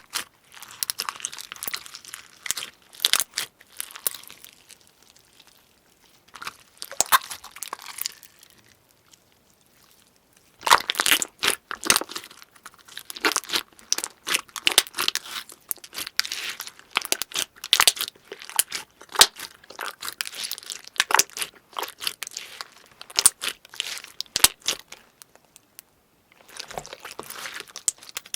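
Crunchy slime being squeezed and pressed by hand: dense, rapid crackling and crunching, with a lull about a third of the way in and a brief pause near the end.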